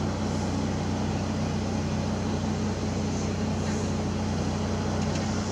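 A steady low mechanical hum under an even rushing noise, like a motor running without change.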